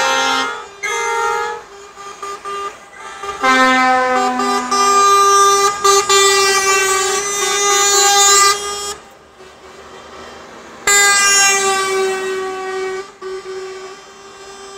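Truck air horns blowing, several at different pitches sounding together: two short toots at the start, a long blast of about five seconds, and another of about two seconds near the end, with a quieter horn tone held after it.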